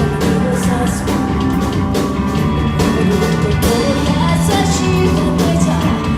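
Rock band playing live at a steady loud level, drums hitting in a regular beat under guitars and bass, with a singer's voice.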